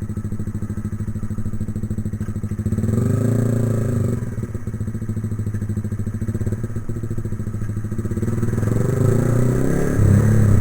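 Motorcycle engine running while being ridden, with a steady pulsing note. It swells as the throttle opens about three seconds in, and again near the end.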